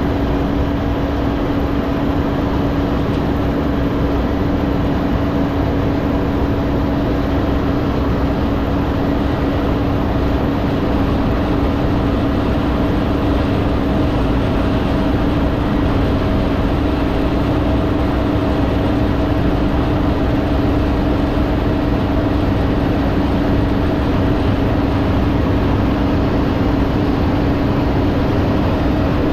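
Tractor engine running at a steady speed, with a constant hum that holds the same pitch and level throughout.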